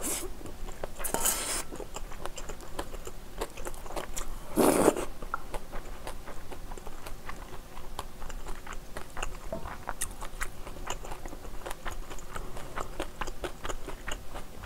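Close-miked mouth sounds of a person chewing kimchi fried rice: a steady run of small wet clicks and smacks. Louder, longer rustling bursts come about a second in and again near five seconds in.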